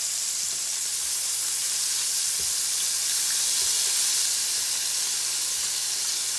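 Flour-coated squid pieces frying in about half an inch of hot oil in a large skillet: a steady sizzle, with a few faint knocks as a fork and a second utensil touch the pan while pieces are turned.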